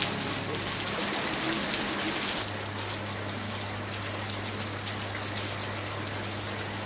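Heavy rain falling, a steady hiss flecked with the patter of individual drops, with a low steady hum underneath from about two seconds in.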